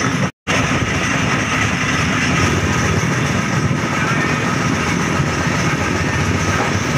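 Steady running noise of a passenger train at speed, heard from on board: wheels rumbling and clattering over the rails, with the rush of air. A train passes close alongside near the start. The sound cuts out for a split second just after the start.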